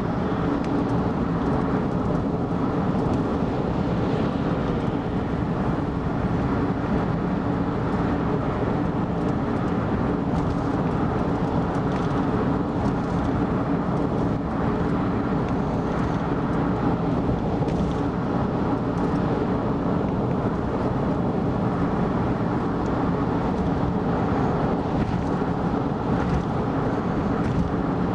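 Car cruising at expressway speed: a steady, unbroken road noise of tyres and engine, mostly low in pitch.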